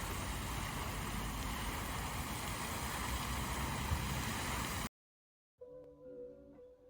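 Steady rushing wind and ride noise on the camera microphone while cycling, with a strong low rumble; it cuts off suddenly about five seconds in. After a moment of silence, plucked acoustic guitar music starts near the end.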